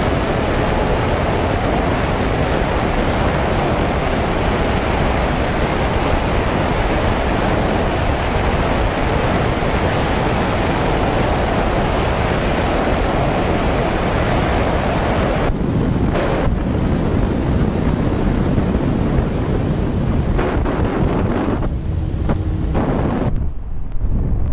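Steady loud rushing noise like wind on a microphone, with a few faint high ticks about seven and ten seconds in and the noise thinning out near the end.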